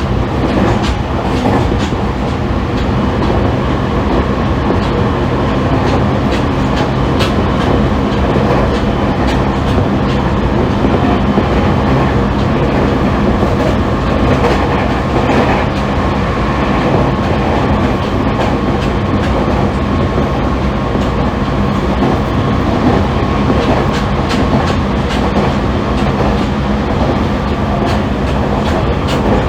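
A JR East E501 series electric train running steadily between stations, heard inside its motor car, the MoHa E500-2. There is a continuous rumble of wheels on rail with steady low running tones, and the wheels click at intervals over rail joints.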